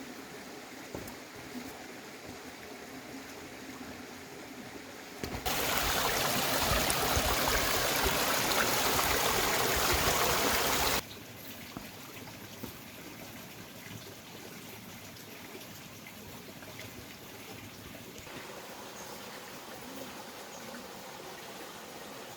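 Stream water running and trickling steadily, with a much louder stretch of rushing water noise from about five to eleven seconds in that starts and stops abruptly.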